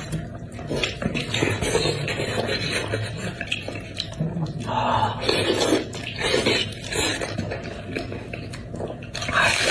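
Eating beef trotter: repeated clicks of utensils against a dish, mixed with wet chewing and mouth sounds.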